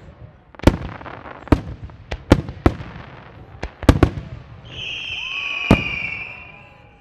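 Fireworks shells bursting in a starmine rapid-fire barrage: about nine sharp booms with echoing tails, several in quick pairs. A steady high whistle lasts about two seconds near the end.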